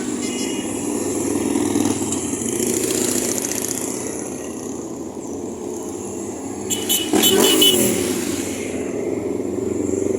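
Steady rumble of motorbike engines and street traffic. About seven seconds in, one bike revs loudly as it passes close, its pitch falling as it goes by.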